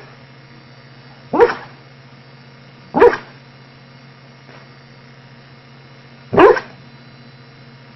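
A dog barking single, separate barks, three loud ones spread out with long gaps between, over a steady low hum.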